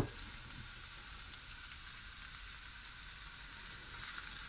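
Broccoli frying in oil in a frying pan: a steady, quiet sizzle. A short knock at the very start.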